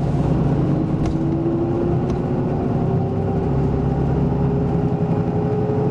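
Isuzu Erga Mio city bus with an Aisin automatic transmission, heard from inside while under way. A steady diesel engine hum runs under a whine that rises slowly in pitch as the bus gathers speed.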